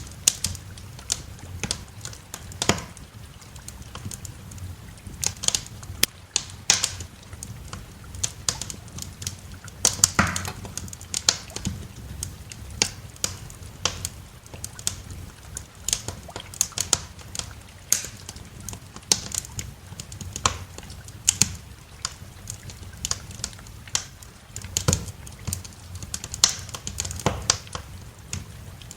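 Wood fire crackling: irregular sharp pops and snaps, several a second, some louder than others, over a low steady rumble.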